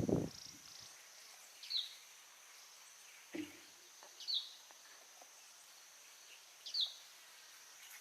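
Outdoor jungle ambience: a steady high insect buzz, with a bird giving a short chirp three times about every two and a half seconds. There is a thump right at the start and a softer knock a little later.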